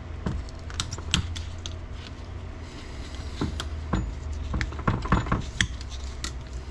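Snap ring pliers working a snap ring off the front shaft of an NP205 transfer case: scattered light metallic clicks and ticks of steel on steel, with a steady low hum underneath.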